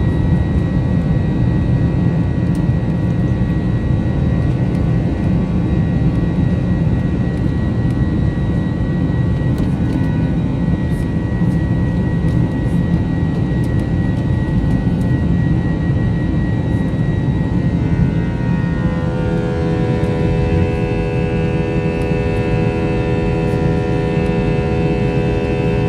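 Jet airliner engines running steadily at high power during takeoff: a heavy, even rumble with steady tones over it. About two-thirds through, those tones change to a new, different set while the rumble carries on.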